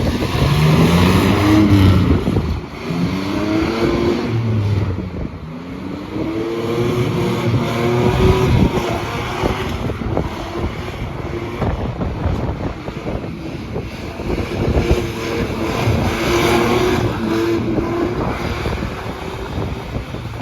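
Car engine revving hard again and again at a burnout pit, its pitch climbing and falling with each rev, over a loud rushing noise.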